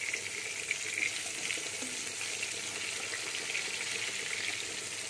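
Eggplant slices sizzling steadily in hot oil in an iron kadai, with a fine crackle, just after being laid in one by one.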